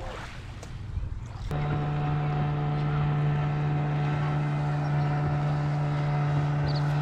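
A steady motor hum at one constant pitch, starting suddenly about a second and a half in and holding level.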